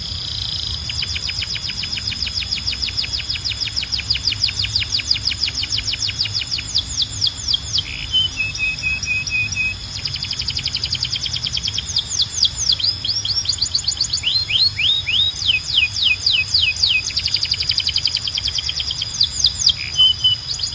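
Domestic canary singing: long rolls of rapid, repeated downward-sweeping high notes that change speed from phrase to phrase, with a short lower buzzy phrase about eight seconds in.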